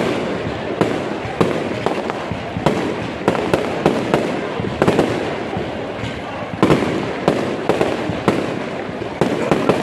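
Aerial fireworks going off: an irregular run of sharp bangs from bursting shells, sometimes several a second, over continuous crackling.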